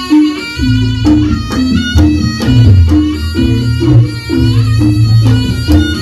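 Reog ensemble music: a shrill reed melody held over a repeating two-note pattern, with drums and gongs struck steadily.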